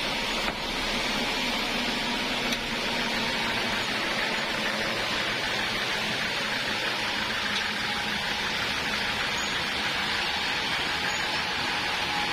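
Portable sawmill running with a steady, even rushing noise, with two faint ticks in the first few seconds.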